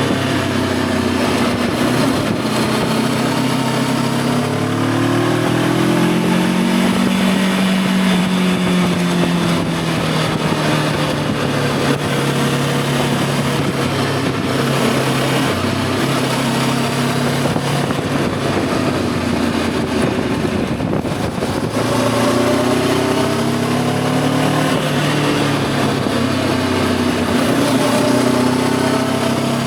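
Voge 525 DSX's parallel-twin engine running under way, its revs climbing and settling as the bike accelerates and changes speed, with a steady rush of wind noise through the middle stretch.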